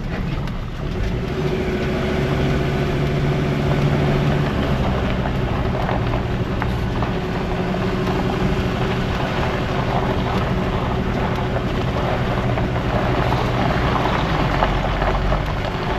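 Vehicle engine and road noise heard from inside the cabin while driving slowly, a steady low hum.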